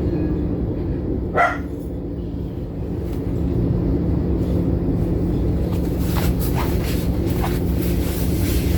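Passenger train running: a steady low rumble with a constant hum. One short, sharp yelp about a second and a half in, and scattered clicks and hiss in the second half.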